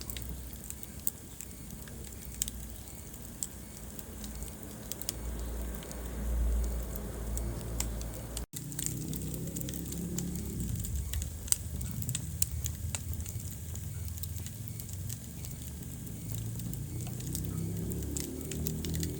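Wood fire burning in a fireplace: irregular crackles and sharp pops over a low rumble of flames. The sound cuts out for an instant about halfway through.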